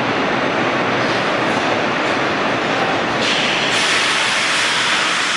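Vintage R1/R9-series 'Arnine' subway cars running through the station, with a steady loud rumble of wheels on rail. About three seconds in, a louder high-pitched hiss joins.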